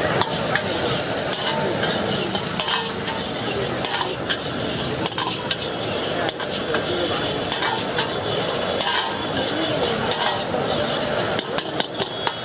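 Chilli chicken frying with a steady sizzle while a metal spoon or ladle stirs and scrapes the pan, clicking against it. A quick run of about half a dozen sharp taps comes near the end.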